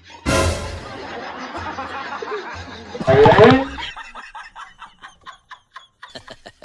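Laughter and snickering: a sudden noisy burst about a quarter second in, a loud pitched burst of laughter just after three seconds, then a quick run of short, evenly spaced snickers.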